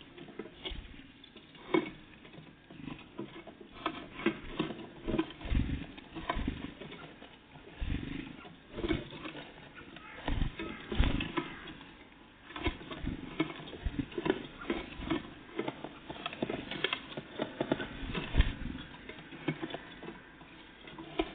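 Irregular taps, knocks and scuffles of small birds, great tits and blue tits, landing on and pecking at a feeder close to the microphone.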